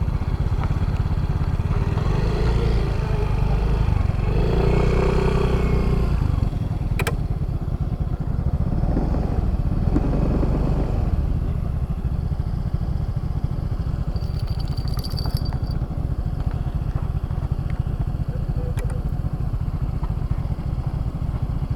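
Yamaha Fazzio motor scooter being ridden: its engine is running under a heavy, steady low rumble, with a sharp click about seven seconds in.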